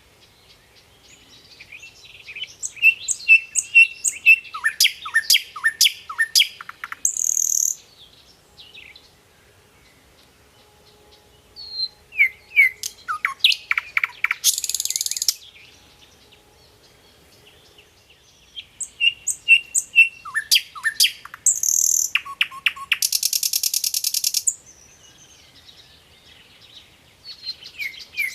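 A songbird singing in three bouts a few seconds apart, with a fourth beginning near the end. Each bout is a fast run of chirps and falling notes that ends in a buzzy rattle.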